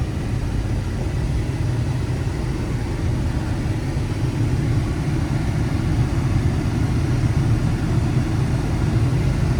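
A 1995 Chevrolet 1500 pickup's 4.3 L V6 running, heard from inside the cab as a steady low rumble that grows slightly louder toward the end.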